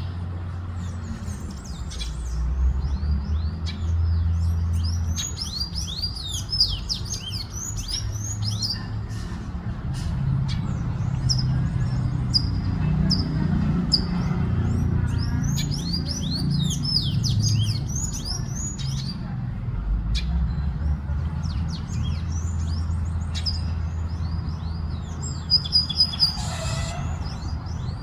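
Chestnut-capped blackbirds (garibaldi) and a chalk-browed mockingbird (sabiá-do-campo) singing in repeated bouts of quick high chirps and warbled notes, over a steady low rumble. A brief louder burst comes near the end.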